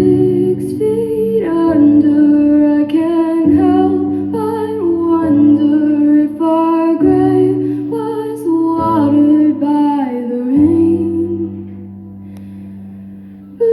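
A female voice sings a wordless melody that steps between held notes over a soft, sustained backing track. Near the end the voice stops and only the quieter backing goes on for about two seconds.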